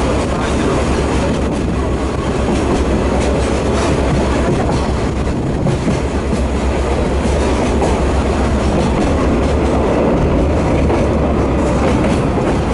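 Sagano trolley train heard from on board as it runs: a steady rumble of the carriages' wheels on the track, with faint clicks over rail joints.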